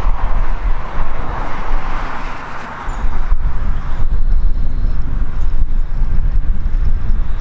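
A train passing close by: a loud low rumble, with a rushing noise that fades after about two seconds.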